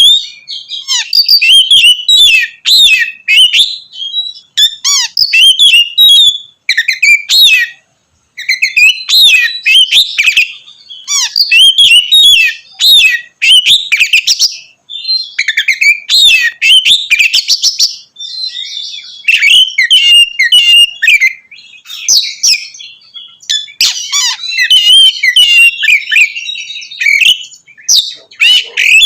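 Oriental magpie-robin (kacer) singing loudly in a long run of varied whistled phrases and rapid chattering notes, with short pauses between bursts of song.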